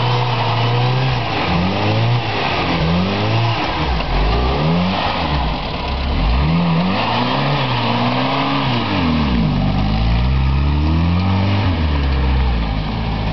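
Jeep's engine revving up and down over and over as the Jeep climbs out through mud and snow, its pitch rising and falling every second or two.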